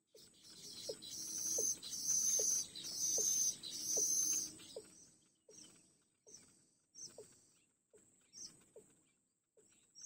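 Bird calls: a short low note repeated about every two-thirds of a second, with a loud high buzzing chatter in four bursts between about one and four and a half seconds in.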